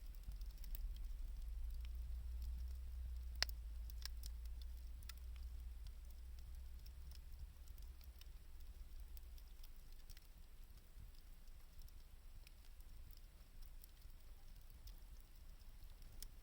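Wood fire crackling faintly, with scattered sharp pops, one louder pop a few seconds in, over a low rumble that eases off about two-thirds of the way through.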